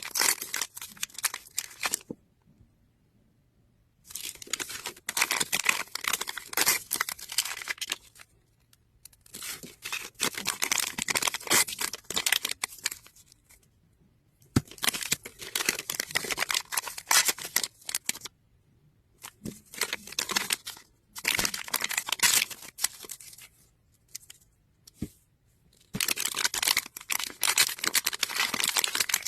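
Thin plastic wrapping crinkling and tearing in repeated bouts of a few seconds each, with short pauses between, as Mini Brands capsules and their small packets are unwrapped by hand.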